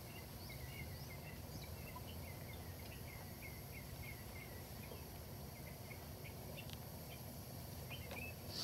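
Faint outdoor ambience: birds chirping, a steady run of short high chirps, over a low steady rumble.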